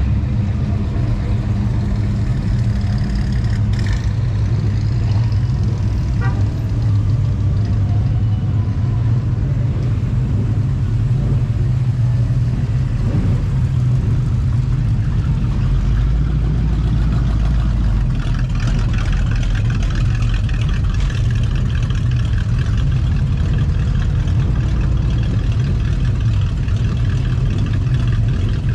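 Car engine running, a steady low rumble; a little past halfway it grows deeper and fuller.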